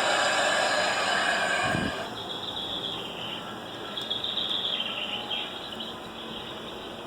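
A loud rushing noise that stops about two seconds in, then recorded birds chirping, played as sound effects on a model railroad layout.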